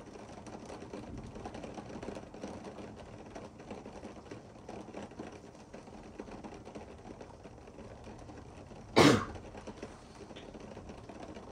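Steady rain pattering, a dense crackle of small taps. About nine seconds in, one short, loud burst stands out.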